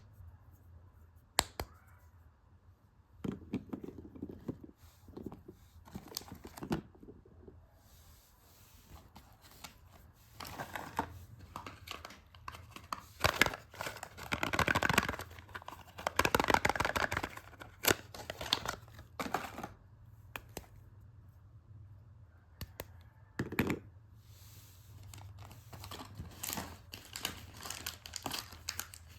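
Soap wrapping being torn open and crinkled by hand, close to the microphone, with scattered light taps and clicks. The loudest, densest rustling comes in the middle.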